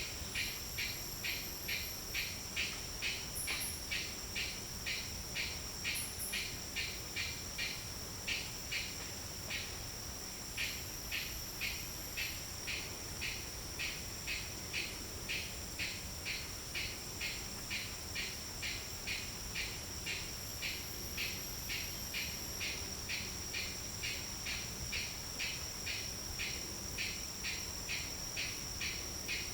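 Forest insect chorus: a steady high-pitched drone under a regular chirping at about two chirps a second, with a few thin, very high whistles now and then.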